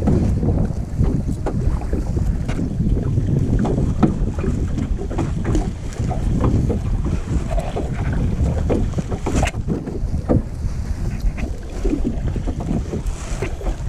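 Wind buffeting the microphone in a heavy low rumble, with frequent small splashes and knocks of choppy water against a kayak.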